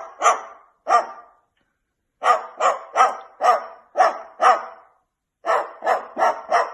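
Barking in three quick runs: two or three barks, then six, then four, about two to three barks a second.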